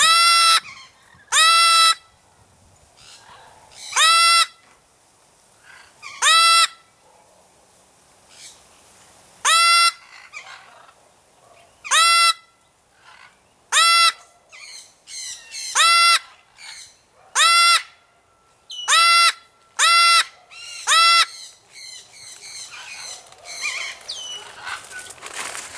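A parrot calling loudly over and over, each call a short squawk that bends upward at the start. The calls come about every two seconds, then faster, about one a second, near the end.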